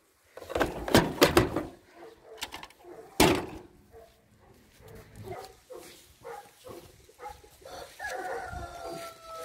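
Sharp knocks and bangs of a washing machine being broken apart: a cluster of loud hits about a second in, a single loud bang about three seconds in, and lighter knocks between. Near the end comes a drawn-out high tone that drops in pitch as it stops.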